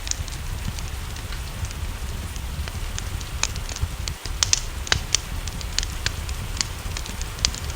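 Wood fire crackling, with sharp irregular pops several times a second over a steady low rumble, mixed with the even hiss of rain.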